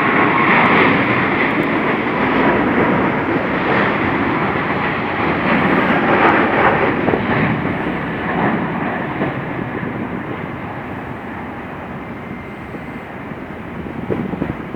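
Jet engine roar from a Boeing 777-300ER's two GE90-115B turbofans at takeoff power as the airliner departs. It is loud for the first several seconds, then slowly fades as the aircraft climbs away.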